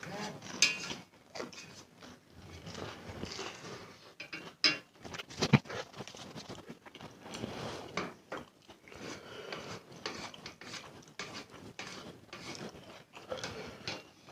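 Close-up eating sounds of spicy instant noodles: irregular chewing and mouth noises, with cutlery clicking against the bowl. A couple of sharper clicks come about halfway through.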